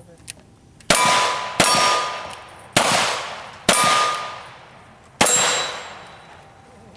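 Five gunshots at uneven spacing, each with a steel target ringing out after the hit, the clang fading over about half a second to a second.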